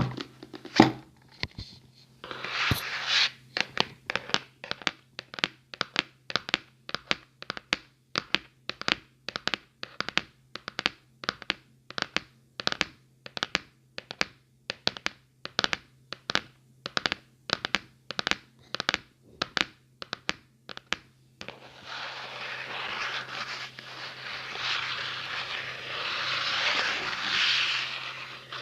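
ASMR tapping on a hard surface, sharp taps at about two a second, then continuous scratching over the last seven seconds or so.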